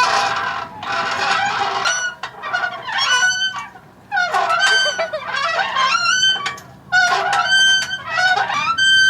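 Geese honking: a run of loud, repeated calls, several overlapping, with brief gaps between bouts.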